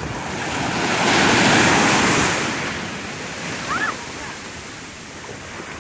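A sea wave breaking on the shore: the wash of surf swells up, peaks about a second and a half in, then drains away.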